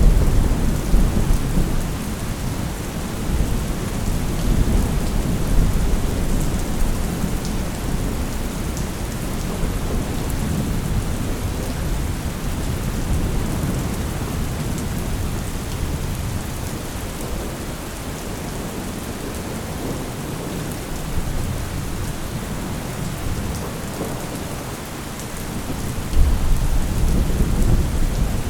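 Thunderstorm: steady rain with rolling thunder. A rumble of thunder dies away over the first couple of seconds, and a new peal starts suddenly near the end.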